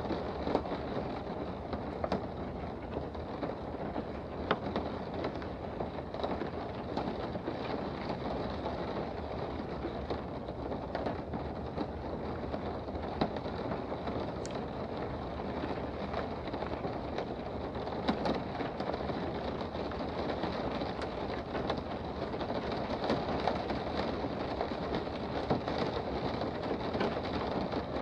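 Steady rain heard from indoors, an even rushing hiss with scattered sharp drip-like ticks.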